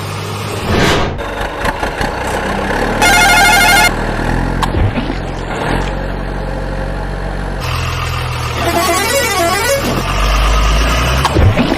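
Sound effects of a remote-controlled model vehicle: a steady low engine hum, with a loud horn blast of about a second a few seconds in and a warbling tone later on.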